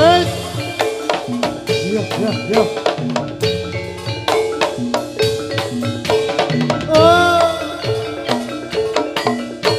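Javanese gamelan music accompanying a jathilan dance: bronze metallophones ringing a repeating melody over busy drum strokes. A sliding high note rises and falls at the start and again about seven seconds in.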